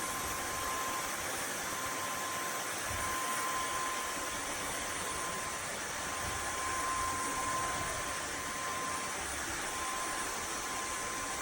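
Narwal S30 wet-dry vacuum mop running: a steady whooshing motor with a faint high whine over it, which cuts off suddenly at the end.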